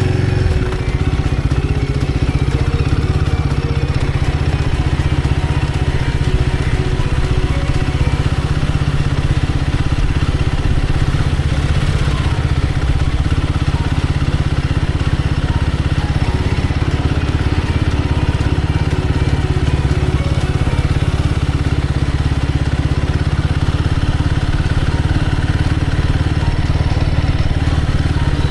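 Royal Enfield Guerrilla 450's single-cylinder engine running steadily while riding, with a change in its note about a second in.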